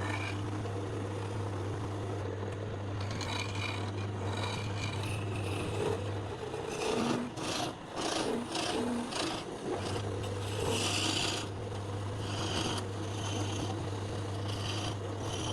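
Wood being scraped or rasped by hand tool work, with a run of short, quick strokes a few seconds in. A steady low hum runs beneath it and stops for a few seconds in the middle.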